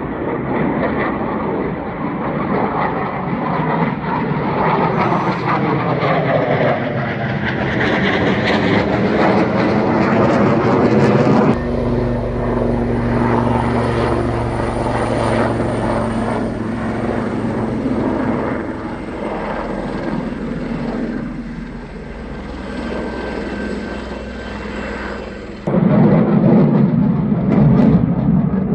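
Low-flying military aircraft passing overhead, its engine drone rising and sweeping in pitch as it goes over. The sound changes abruptly about eleven seconds in and again near the end.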